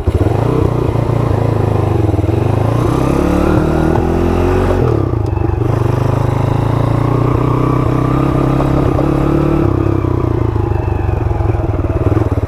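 Honda CT70 mini bike's swapped-in 140cc four-speed engine running under way: the revs climb for a few seconds, drop sharply about five seconds in, then hold fairly steady with a gentle rise and fall.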